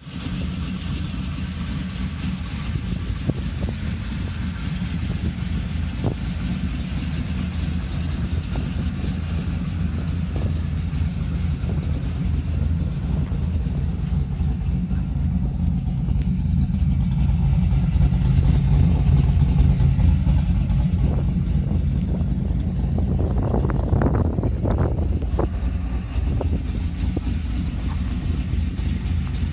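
Chevrolet LS1 5.7-litre V8, swapped into a 1985 Camaro IROC-Z, idling steadily with a low, even rumble. It grows louder around the middle and eases off again, with a few brief louder moments near the end.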